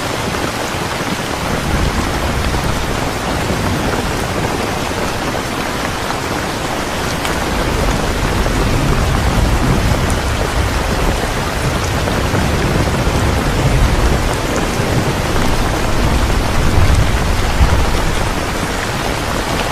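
Steady rain falling, with low rumbles of thunder swelling up twice in the second half.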